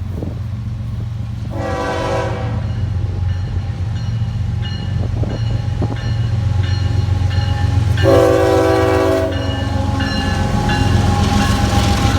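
Approaching freight train led by GE Evolution-series (GEVO) diesel locomotives, its engines giving a steady low rumble that grows louder. The locomotive air horn sounds a short blast about two seconds in, a longer blast about eight seconds in, and starts another at the very end.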